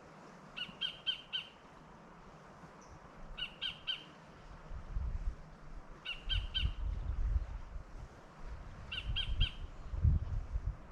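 A bird gives a short run of three or four sharp, clipped notes, repeated four times about every three seconds. Irregular low rumbles come in from about halfway, the strongest near the end.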